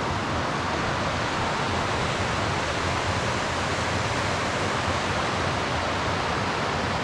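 Steady rushing of the river's water tumbling over rocks, an even hiss with no breaks.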